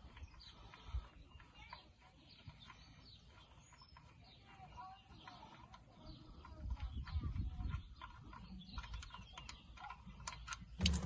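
Faint chirping of small birds, with scattered rustling and light handling noise, and a sharp knock just before the end.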